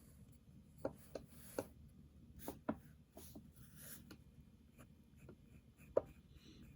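Pencil drawing on paper: faint scratchy strokes with a handful of short sharp ticks as the tip meets the paper, the loudest about six seconds in.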